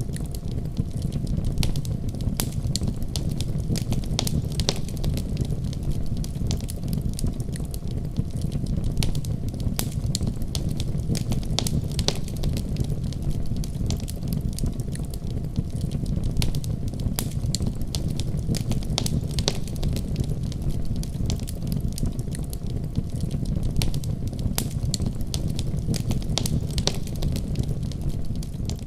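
Wood fire crackling in a fireplace: many irregular sharp snaps over a steady low rumble.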